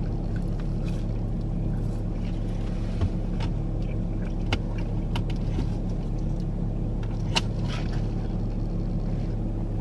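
Car engine idling, heard from inside the cabin as a steady low hum, with a few faint clicks near the middle and later on.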